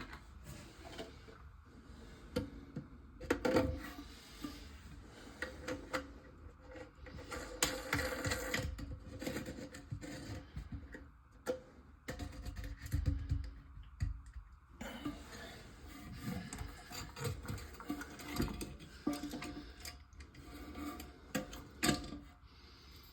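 Irregular clicks, knocks and rubbing from hands working with parts and tools, with a short lull a little before the middle.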